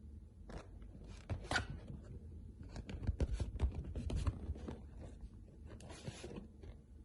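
A run of crisp crackles, clicks and scrapes from handling crispy fried chicken, densest in the middle and with a second burst near the end.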